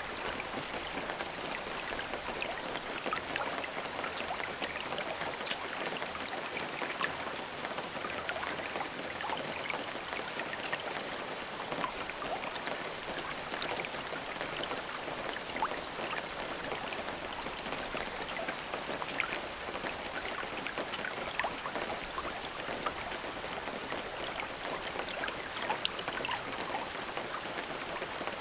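Steady rain falling, an even hiss dotted with many distinct drop ticks on a surface.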